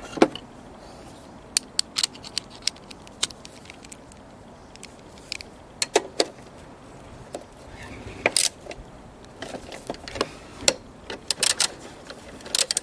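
Scattered sharp metal clicks and clinks, at irregular intervals and busier near the end, of bolts and tools being handled while parts are fastened back onto a lawn mower.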